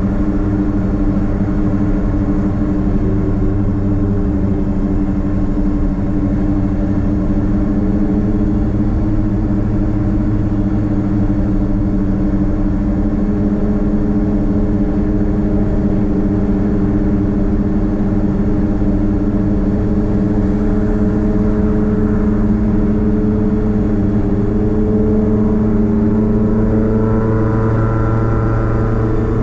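A Nissan Platina's (Renault Clio) four-cylinder engine droning through a straight-piped exhaust at a steady cruise. Its pitch creeps gently upward over the last several seconds as the car speeds up.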